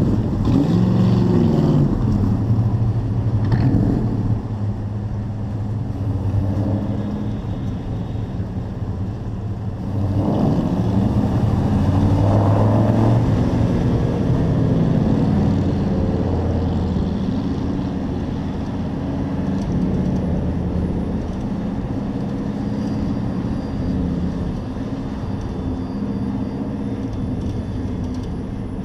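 Race truck's engine running hard, heard from an onboard camera, its pitch rising and falling as it revs through the laps, with surges near the start and again about ten seconds in.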